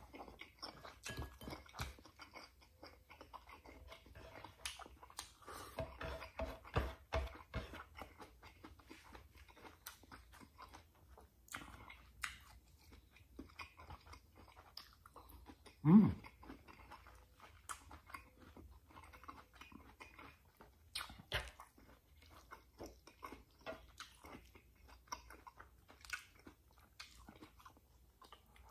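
A person chewing and crunching food close to the microphone, fried milkfish with rice and raw bok choy eaten by hand, in many small crackles and clicks. One louder low sound about halfway through.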